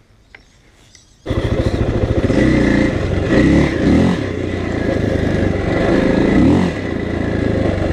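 KTM dirt bike engine running under load while riding, its pitch rising and falling as the throttle opens and closes; it comes in suddenly about a second in, after a moment of near quiet.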